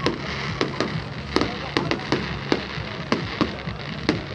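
Fireworks going off: a run of sharp bangs and cracks, a few each second at uneven intervals.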